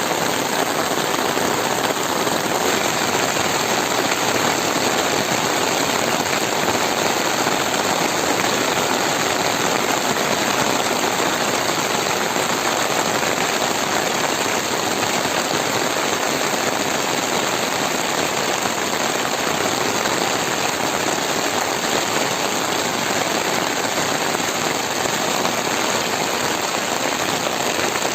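Heavy monsoon rain pouring steadily on forest foliage and ground, an even, unbroken hiss.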